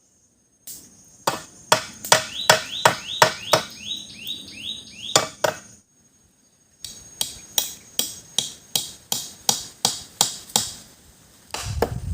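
Parang (machete) chopping into wood, strike after strike at about two to three a second, in two runs with a brief break in the middle.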